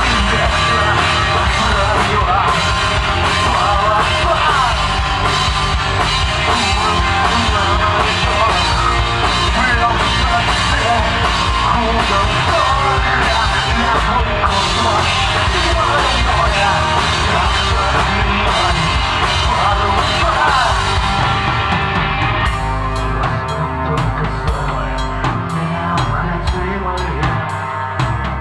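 Live rock band playing: drum kit, guitars and bass in a full, loud arrangement. About three-quarters of the way through the band thins out, leaving mainly drums and bass.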